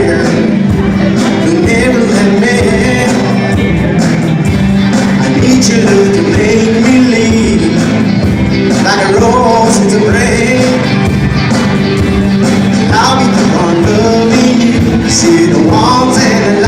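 A band playing a song with a singer's voice over a steady, sustained instrumental backing.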